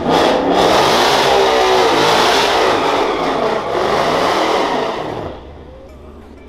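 Drag-racing cars' engines revving hard at the starting line, the engine note rising and falling repeatedly. About five seconds in the revving stops and the sound drops to a low idle.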